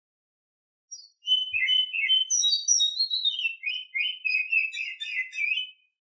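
Female oriental magpie-robin in breeding condition singing one varied phrase of quick whistled and chirping notes. The phrase starts about a second in and lasts about five seconds.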